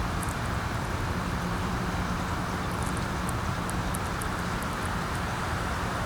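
Steady wind noise with a low rumble, and faint, short high-pitched chirps of small birds now and then.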